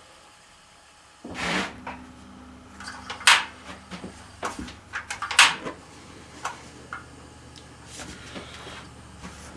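Kitchen handling sounds: several short knocks and clatters, over a steady low hum that switches on about a second in.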